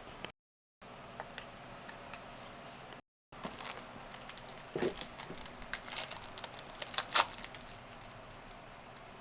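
Trading card packs and cards being handled: the foil wrapper crinkles and the cards click and rustle in a quick run of small sharp sounds in the second half, the sharpest just after seven seconds. The sound cuts out to silence briefly near the start and again about three seconds in.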